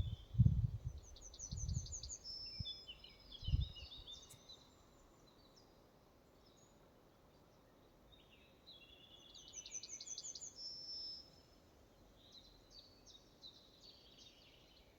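A songbird singing in forest, three short phrases of quick high trills and notes, each a few seconds apart. A few low dull thumps come in the first seconds.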